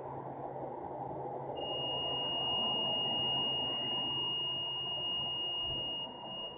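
Steady industrial machinery noise: a low hum under a rumbling hiss. A single high steady tone comes in about one and a half seconds in and stops near the end, as the overall level falls.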